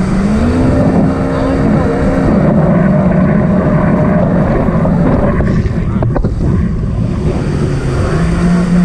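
Jet ski engine running, its pitch rising about half a second in as the throttle opens, holding steady, then climbing again near the end, with wind rushing on the microphone.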